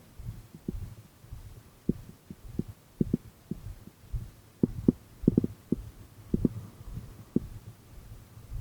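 A series of dull, low thumps at uneven intervals, some in quick pairs, over a low rumble.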